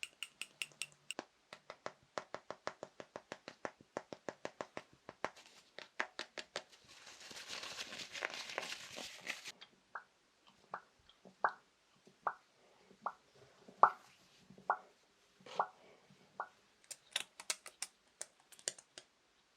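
Fast ASMR tapping with fingers on assorted small objects: rapid runs of crisp taps, then a few seconds of scratchy rustling about midway, then slower single taps about a second apart, and a quick burst of sharp taps near the end.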